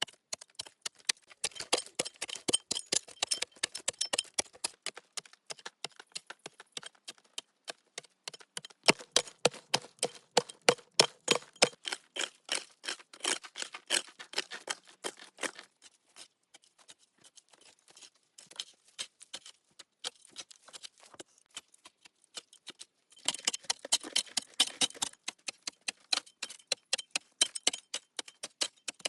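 A fast, uneven series of sharp clicks and knocks, several a second, thinning out past the middle and growing busy again near the end.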